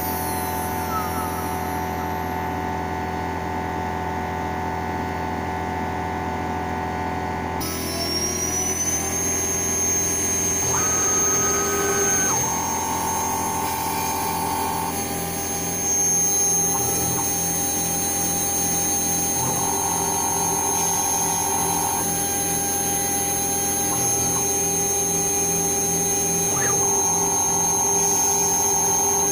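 CNC 6040Z router drilling holes in a printed circuit board with a 0.9 mm carbide drill bit, the dust extraction running steadily underneath. About eight seconds in, the spindle spins up with a rising high whine and then holds a steady pitch, while the stepper motors add whining tones that change every few seconds as the machine moves from hole to hole.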